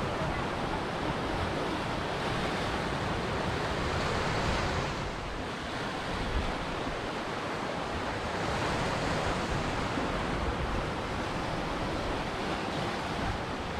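Ocean waves breaking and washing ashore, a continuous rushing surf that swells and eases, with a brief lull about five seconds in.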